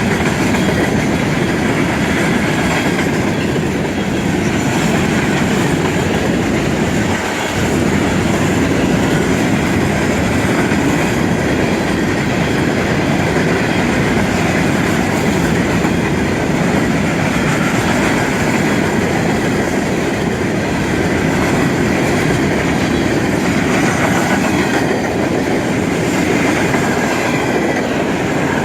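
Freight cars of a mixed manifest and intermodal train rolling past at close range: a steady, loud rumble of steel wheels on the rails that keeps going without a break.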